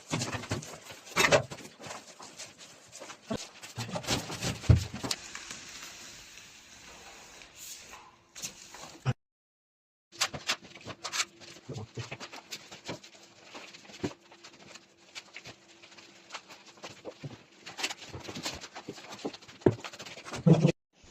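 Irregular scraping and tapping of a putty knife working filler over a wall, cut by about a second of total silence partway through.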